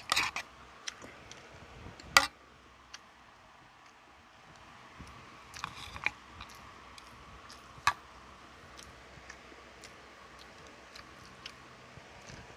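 Mukbang eating sounds of a person chewing fried chicken and fried rice. Scattered sharp clicks and taps punctuate the chewing, the loudest at the very start and about two seconds in.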